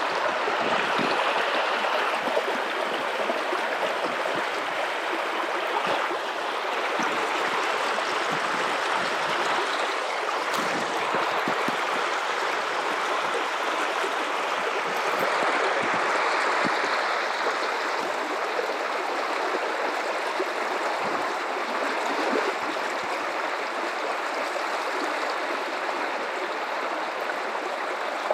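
River water flowing steadily over rocks: a continuous rushing and gurgling that swells slightly and eases without stopping.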